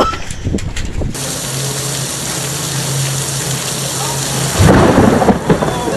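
Storm noise: a steady hiss of heavy rain, with a loud rumble about five seconds in.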